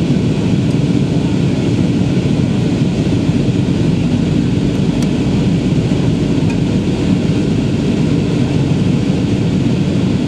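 Steady airliner cabin noise heard from inside the passenger cabin: jet engines and rushing air, even and unchanging, heaviest in the low to middle range.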